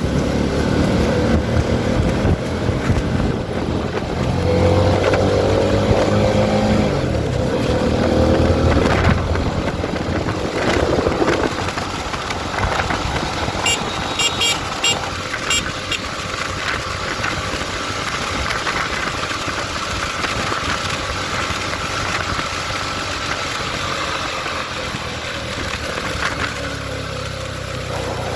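CFMoto 300SR motorcycle engine running under way, its pitch rising twice as it accelerates about 4 to 10 seconds in, then holding steadier, with wind noise.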